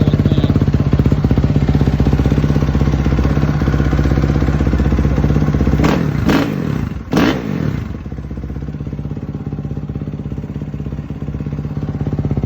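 Suzuki RM-Z450 single-cylinder four-stroke dirt bike idling through a stainless Yoshimura RS-12 exhaust, with two quick throttle blips about six and seven seconds in before it settles back to a slightly quieter idle.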